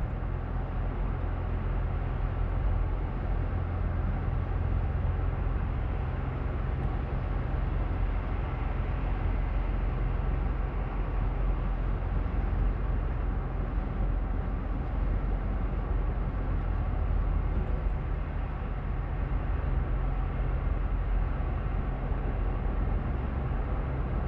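Steady road noise inside a moving car's cabin: a constant low rumble of engine and tyres with an even hiss of wind above it.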